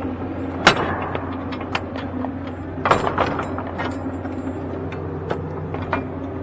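Semi-truck diesel engine idling steadily, with sharp clicks and knocks on top, the loudest about two-thirds of a second in and a cluster around three seconds in.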